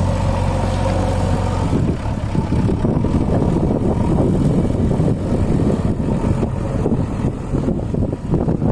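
Tractor diesel engine running: a steady low drone that turns rougher and busier about two seconds in.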